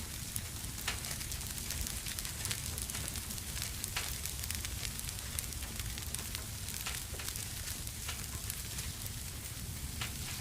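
Wood fire crackling in a fireplace: scattered sharp pops and snaps over a steady hiss and low rumble.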